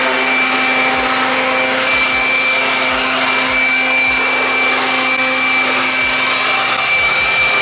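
Electric blower motor, of the kind in a detailing shop's vacuum or air dryer, running steadily with a high whine.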